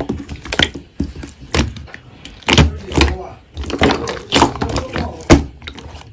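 Slime being squeezed and poked by hand, giving a string of sharp wet pops and clicks, roughly two a second.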